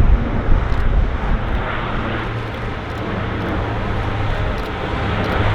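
Jet airliner engines running in a steady, even roar, with gusty wind buffeting the microphone in low rumbles that are strongest at the start.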